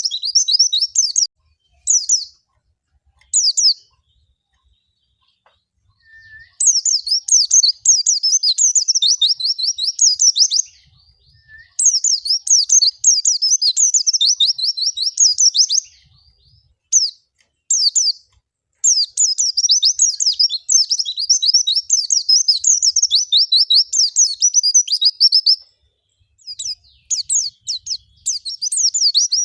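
White-eye (pleci) singing a fast, high warbling song of rapid chirps. It comes in runs of several seconds with short pauses between, and a longer pause a few seconds in.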